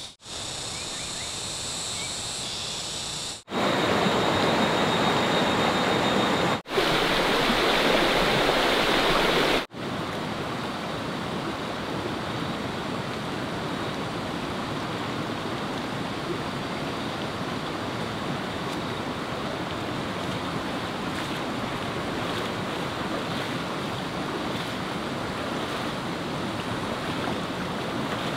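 Steady rushing of flowing water, with no tone or rhythm in it, heard over several shots cut together. It is loudest for a few seconds starting about three and a half seconds in, then settles to a lower, even rush.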